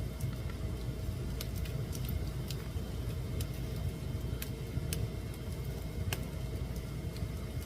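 Wood fire burning in a fireplace: a steady low rumble of the flames with sharp crackles and pops, about one a second.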